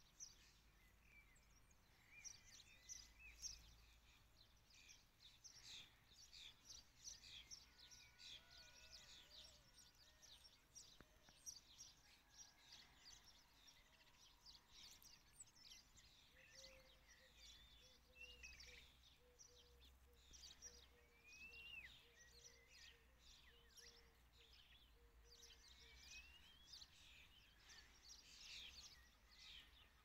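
Small songbirds chirping and twittering faintly and almost without pause, with a few rising whistled notes in the second half.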